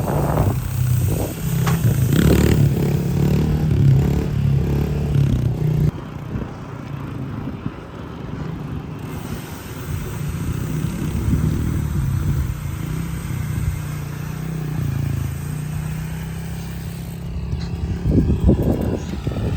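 Small pit-bike engine running, louder and rougher at first, then dropping off sharply about six seconds in and going on more quietly, with a few clattering knocks near the start and near the end.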